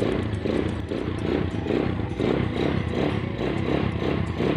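Motorcycle engine being revved repeatedly, running with a regular pulsing of about three beats a second. The engine is freshly tuned up and, per its owner, has no valve ticking.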